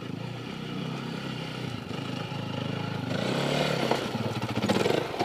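Enduro dirt bike engine running at low revs on a rocky trail, then revving harder about three seconds in with rattling and clatter, loudest near the end.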